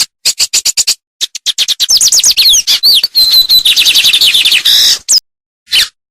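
Songbird singing a fast, varied phrase: a quick run of sharp chips, then a rush of down-slurred whistles and a brief trill, ending about five seconds in, with one more short call near the end.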